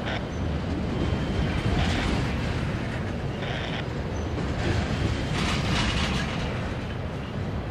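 A train passing: a steady low rumble with a few short spells of higher rattle and hiss from the wheels and cars.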